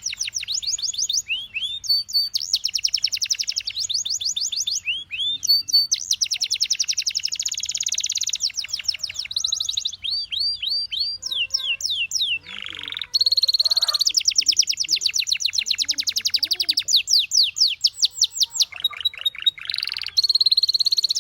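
Canary singing a long, rapid song: fast trills of evenly repeated high notes that change to a new phrase every second or two, with brief breaks and a few downward-swooping notes between phrases.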